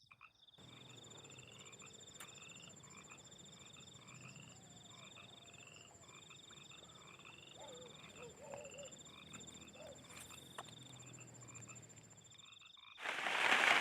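A chorus of frogs calling, with short rising calls repeated every half-second or so over a steady high, pulsing insect-like drone. A few lower warbling calls come about halfway through. Near the end, a sudden loud hiss of rain cuts in.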